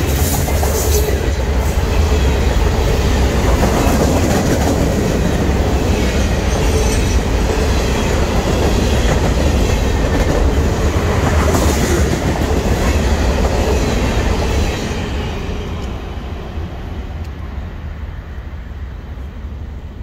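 Freight train of covered hopper cars rolling past at trackside: a steady rumble and clatter of steel wheels on rail. About fifteen seconds in, the sound drops off and fades as the last cars go by.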